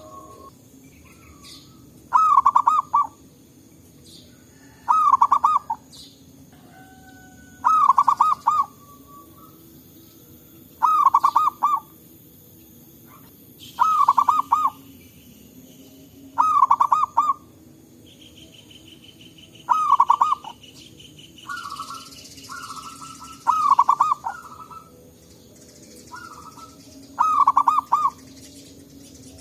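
Zebra dove (perkutut) cooing: a short, rapidly pulsed coo, repeated about every three seconds, roughly ten times.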